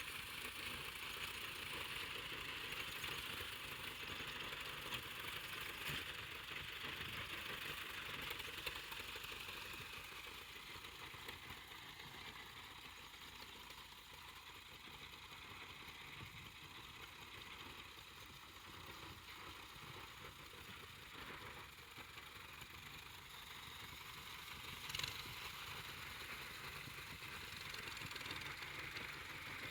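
A vehicle engine running steadily, dipping a little in level partway through and coming back up, with one short click near the end.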